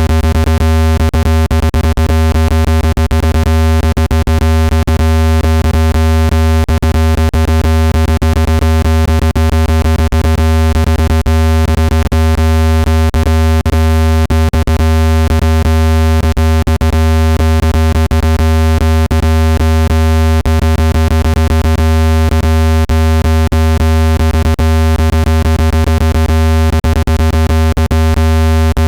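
Loud synthesized speaker-cleaning tone: a deep, steady hum with many higher steady tones stacked over it and rapid irregular clicks, unchanging throughout. It is meant to be played at full volume so the speaker's vibration shakes dust out of a phone speaker grille.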